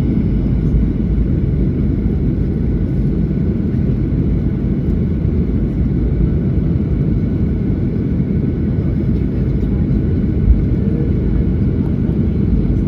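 Cabin noise aboard a Boeing 737-800: a steady low rumble from its CFM56 engines and the airframe, with a faint steady whine above it.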